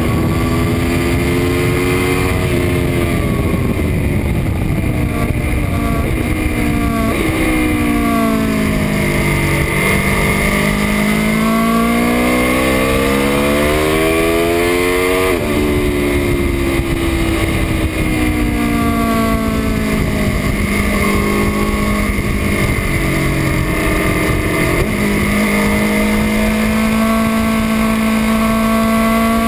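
2018 Aprilia Tuono RR's V4 engine at speed on a racetrack, its note climbing and falling as the rider accelerates, shifts and brakes, with several sudden pitch jumps at gear changes. Heavy wind rush runs underneath.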